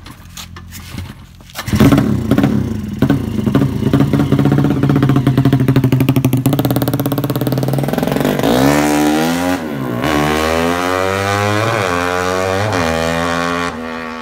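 Drag-race motorcycle engine starting up about two seconds in and running at a steady pace, then revved up and down in quick blips about once a second over the last few seconds.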